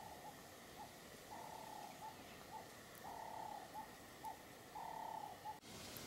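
A bird calling repeatedly, faintly: a held note followed by one or two short notes, about every second and a half to two seconds.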